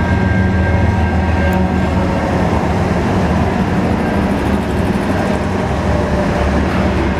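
Diesel-electric locomotives of a CN freight train passing close by, their engines running with a steady, loud low drone, followed by freight cars rolling past.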